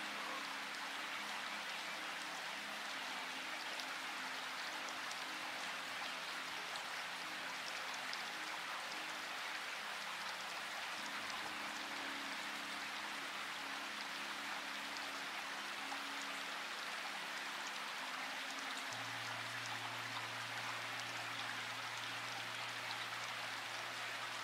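Steady rain falling, an even hiss without change in level. Under it, soft sustained low notes of ambient music that shift to new pitches about eleven seconds in and again near nineteen seconds, when a deeper note joins.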